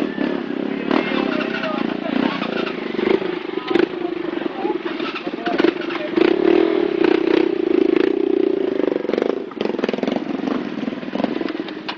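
Motorcycle engines running steadily, getting louder about six seconds in and easing off a little after nine seconds, with people talking in the background.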